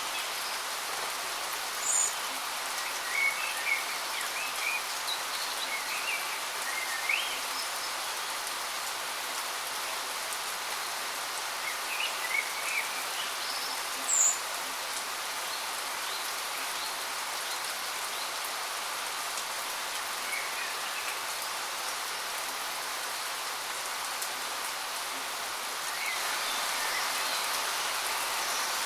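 Steady rushing hiss of a waterfall, with birds giving short high chirps now and then, most of them in the first half.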